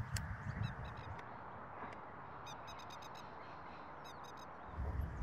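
Waterfowl calling in quick runs of short calls, loudest in two bursts in the middle and later, over a steady outdoor background hiss. A single sharp click comes just at the start, and low wind rumble on the microphone comes at the start and again near the end.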